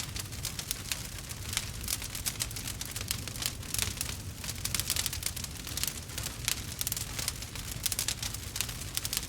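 Wood fire burning, with dense, irregular crackles and small pops over a low rumble.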